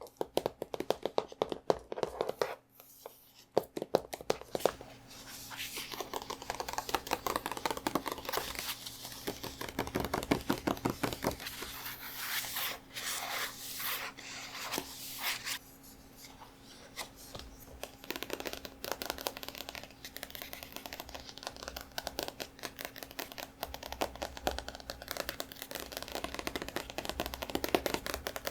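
Hands tapping and scratching on a book: a few separate taps at first, then from about four seconds in a dense run of quick taps and scratching strokes.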